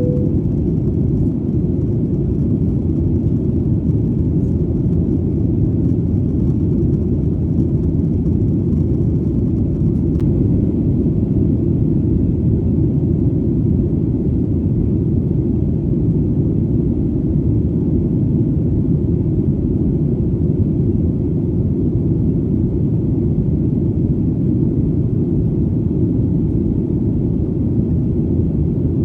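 Steady, low airplane engine drone, a deep even rumble that holds the same pitch and level throughout.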